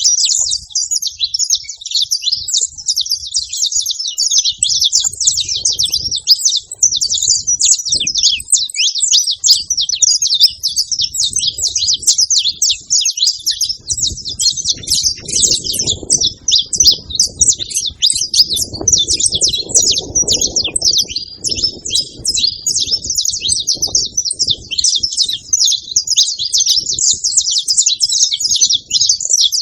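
Saffron finch song: a continuous stream of rapid, high-pitched chirping notes with no pause. A fainter low rumble comes in around the middle.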